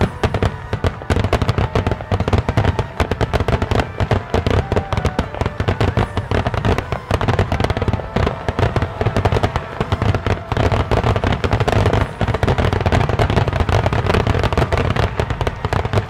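A continuous barrage of fireworks bursting, many bangs and crackles a second without a break.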